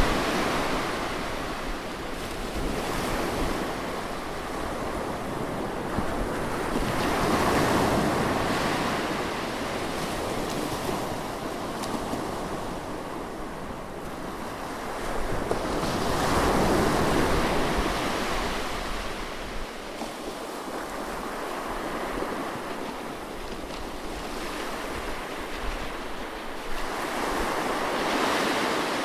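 Close recording of sea waves washing on a shore: surf swells and ebbs in four slow surges, several seconds apart.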